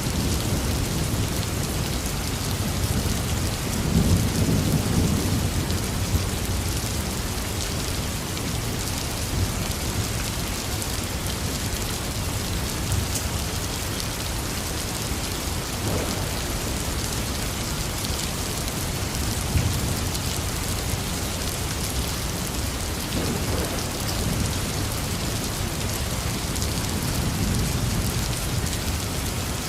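Intense rain falling steadily, with low rolls of thunder. The loudest rumble swells about four seconds in, and fainter ones follow later.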